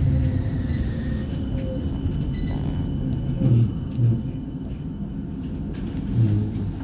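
Interior running noise of a CAF Urbos 3 tram running into a stop: a steady low rumble of wheels and traction gear, a thin high whine from about a second in, and a few brief low thumps.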